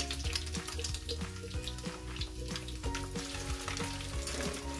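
Crab omelette patties frying in shallow oil in a nonstick skillet: a steady sizzle full of small crackling pops.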